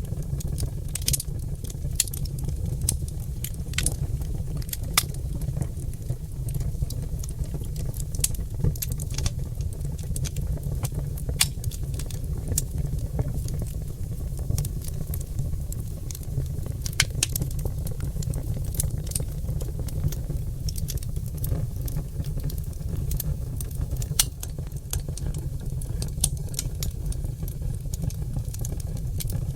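Oak logs burning in a fireplace: irregular crackles and sharp pops, several a second, over a steady low rumble of the fire.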